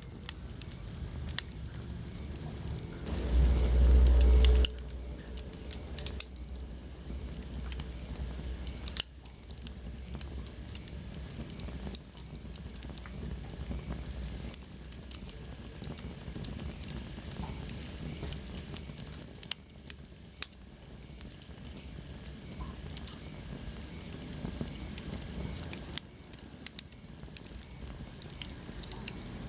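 Wood fire crackling with scattered sharp pops. About three seconds in, a loud low rumble lasts for about a second and a half, and near the middle a faint high whistle glides down in pitch.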